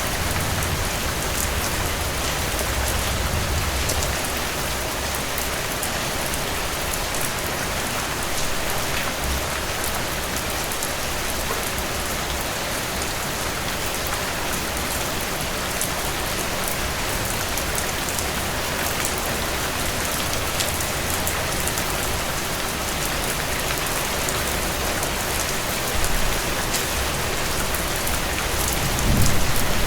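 Heavy rain falling steadily on a cabin porch, a dense even hiss dotted with sharp little ticks of drops. A low rumble swells in near the end.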